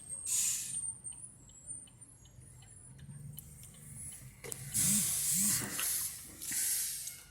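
Three bursts of hissing, the longest starting a little past halfway, with faint regular ticking between the first and second.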